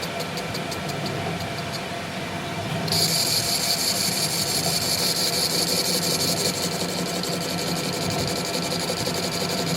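Workshop machinery running with a steady hum. About three seconds in, a higher, steady whine starts abruptly and the sound grows louder.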